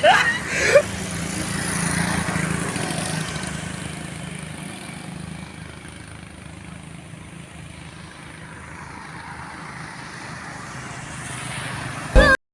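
An engine running steadily with a low hum. It grows louder about two seconds in, then fades, and cuts off abruptly near the end.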